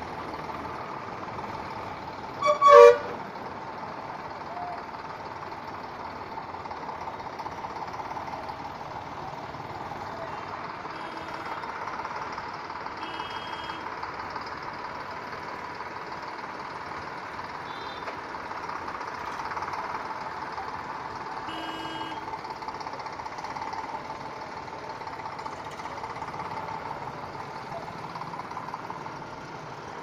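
Diesel tractor engine running steadily. About two and a half seconds in comes a short, loud, two-part toot, the loudest sound here.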